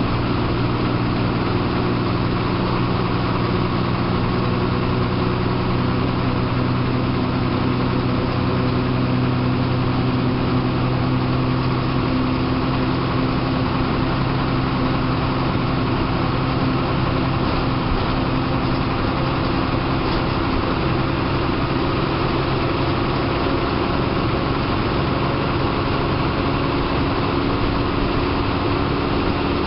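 Diesel engine of a TSRTC bus running steadily, heard from inside the driver's cabin, with a slight change in engine pitch partway through.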